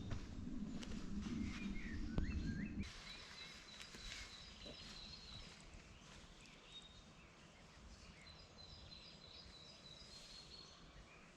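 A low rustling noise with a few knocks cuts off abruptly about three seconds in. After that comes quiet outdoor ambience with short series of high, thin bird chirps.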